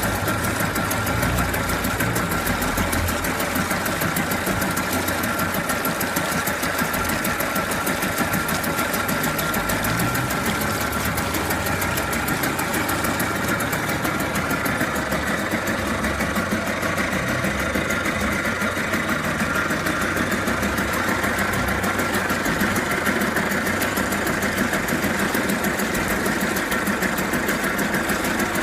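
Mercury 2.2 hp outboard motor running steadily at an even speed.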